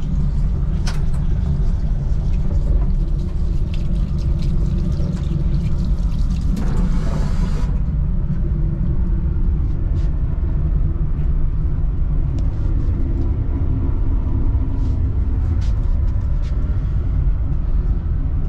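Steady low rumble of an SJ X2000 high-speed train running, heard inside the coach. About six seconds in, a hiss starts, lasts about a second and a half and cuts off sharply. A few light clicks are heard.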